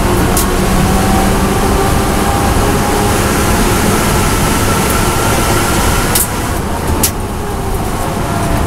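BMW M240i race car's turbocharged straight-six pulling at full throttle in fifth gear, pitch rising slowly, heard from inside the cabin. About six seconds in the driver lifts off and brakes, and the engine note drops, with two short sharp cracks about a second apart as the car shifts down to fourth.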